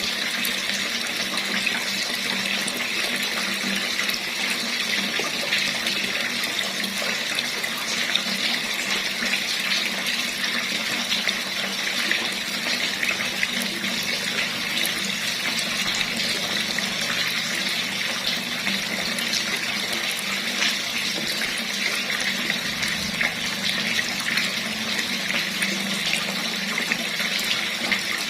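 Water running steadily from a tap, a constant splashing hiss.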